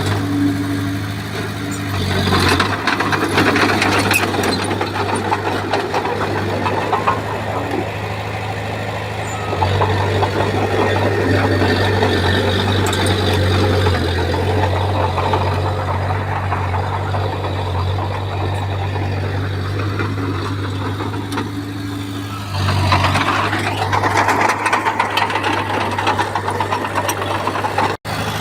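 Komatsu bulldozer's diesel engine running steadily under working load, with its level shifting a few times. There are rougher, louder stretches about two seconds in and again near the end, and the sound cuts out for an instant just before the end.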